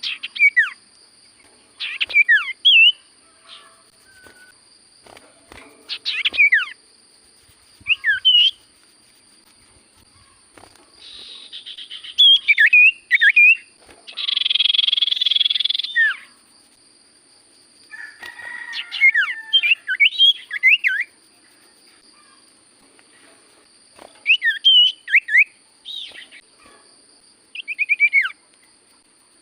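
Cipoh (iora) singing short phrases of sharp whistled notes that sweep quickly up and down, a phrase every two to four seconds. About halfway through comes a harsh hissing burst lasting about two seconds, and a faint steady high tone runs underneath.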